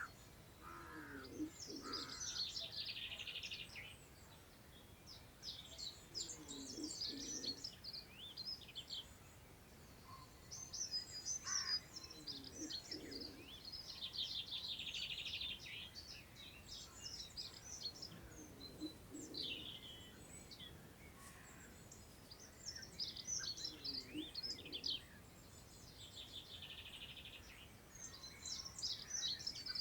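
Countryside songbirds singing, with phrases recurring every few seconds, several ending in a fast trill. Beneath them a deeper bird call repeats about every five to six seconds.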